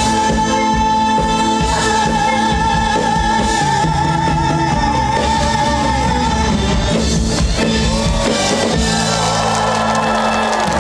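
A female singer of a Korean trot song holds one long high note over the backing music for about six seconds, then the music carries on and stops as the song ends.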